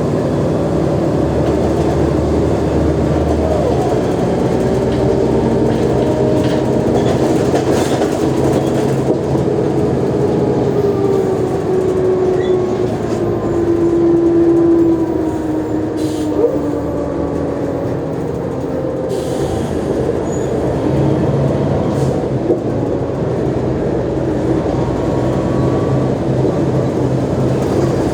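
Mercedes-Benz O345G articulated city bus under way: the engine and driveline run with a whine that climbs and is loudest about halfway through, then falls away as the bus eases off. The lower engine note picks up again in the last third.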